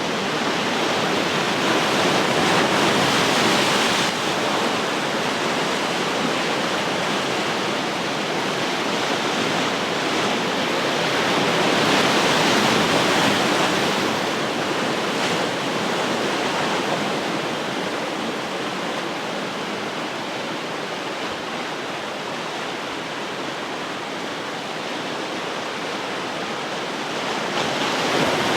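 Ocean surf breaking and washing ashore in a continuous rushing hiss that swells twice, a few seconds in and about halfway, then eases before building again near the end.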